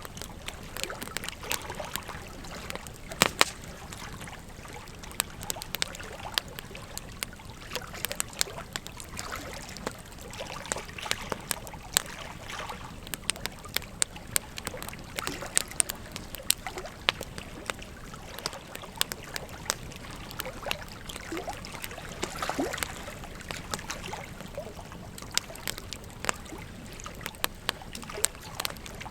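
Wood fire crackling, with frequent sharp pops and snaps, over the steady rush and gurgle of a flowing river.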